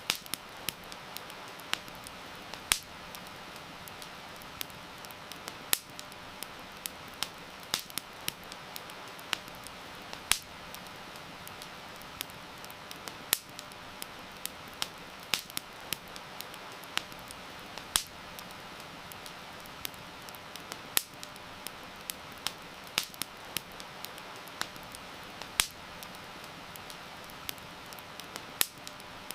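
Wood campfire crackling with sharp, irregular pops, a few much louder than the rest, over a steady hiss of heavy rain.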